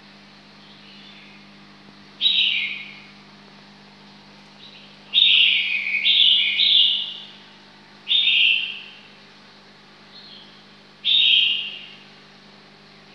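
A bird calling repeatedly: six short, loud calls that each drop in pitch, three of them close together in the middle. A steady low hum lies beneath.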